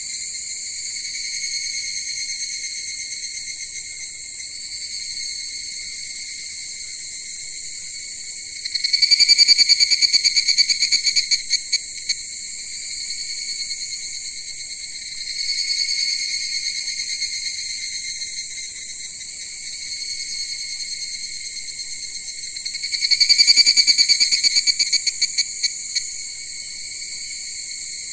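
Insects calling in a steady high chorus. Twice, a louder pulsing call rises over it for about three seconds, breaking into separate chirps before it stops.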